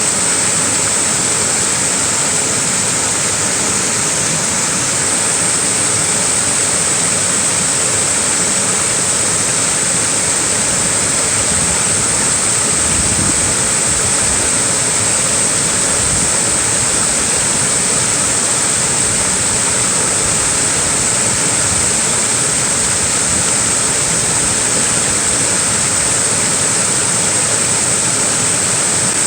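A small waterfall rushing steadily: an even wash of falling water with a strong high hiss, and a couple of brief low rumbles about halfway through.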